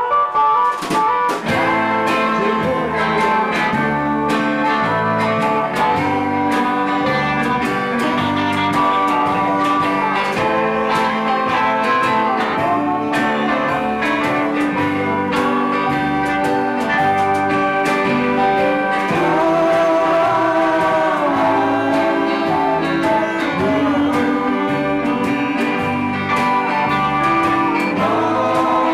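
Live band playing a song: strummed guitar over a moving bass line, with a voice singing over it.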